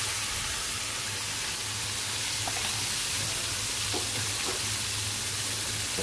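Chicken pieces in a yogurt-and-spice marinade sizzling in hot oil in a steel pan: a steady frying hiss with a few faint clicks.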